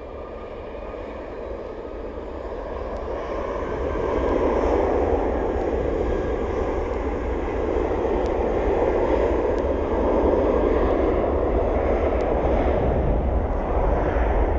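Airbus A320-232 jet airliner taking off, its two IAE V2500 turbofans at takeoff power. The jet noise swells over the first four seconds, with a faint whine sliding in pitch at first, then holds steady and loud.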